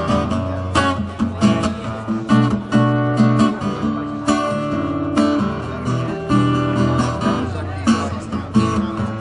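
Live acoustic guitar strummed in a steady rhythm, an instrumental passage between sung lines of a song.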